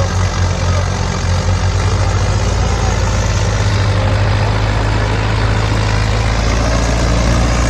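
Mahindra 50 hp tractor's diesel engine running steadily with a loud, deep, even note.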